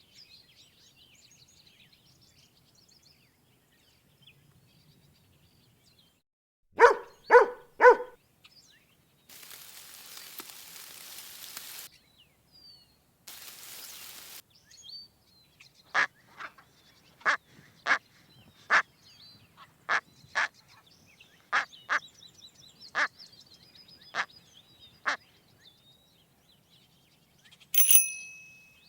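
Three loud duck quacks in quick succession, after faint bird chirps. Then a stretch of hiss, a run of about a dozen sharp clicks, and a single bright ding near the end.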